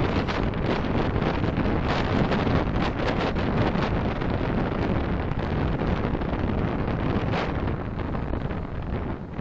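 Road and wind noise of a car on the move, picked up by a dashcam microphone: a steady rushing noise that eases slightly near the end.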